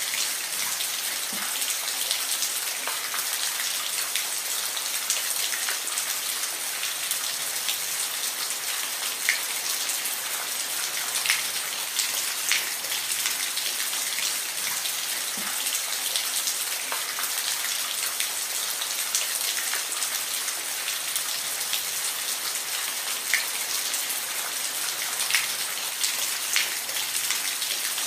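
Steady rain falling, an even hiss with individual drops pattering and ticking clearly on a surface now and then.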